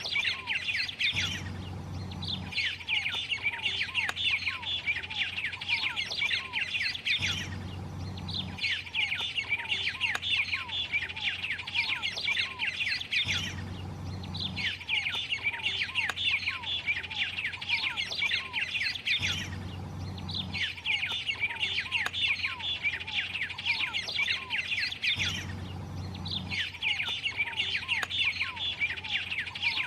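White-rumped tanager song: rapid, dense chattering of short high notes, in phrases of four to five seconds broken by brief pauses about every six seconds.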